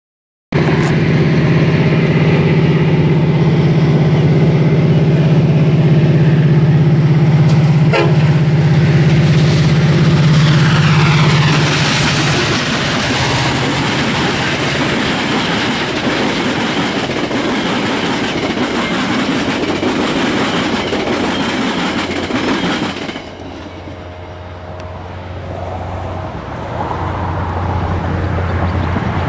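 Metra diesel commuter train passing close by: the locomotive's engine drones loud and steady as it approaches and goes by. After about 23 s the sound drops to the rolling of the passenger cars, with wheels clicking over rail joints near the end.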